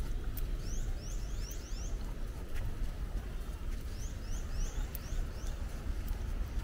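A bird calling in two runs of quick, high, rising chirps, about five notes each, a few seconds apart, over a steady low rumble.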